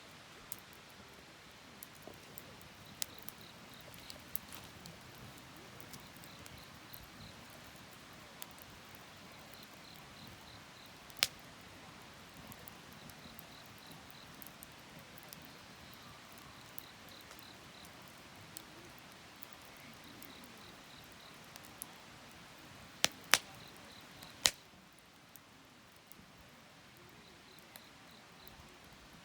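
Wood campfire crackling, with scattered small ticks and a few sharp pops from the burning wood, the loudest three close together near the end. Faint high chirps in short runs of four or five repeat every few seconds in the background, like insects.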